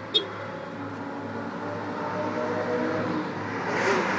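Lamborghini engine running as the car approaches from a distance, growing steadily louder. A brief click comes just after the start.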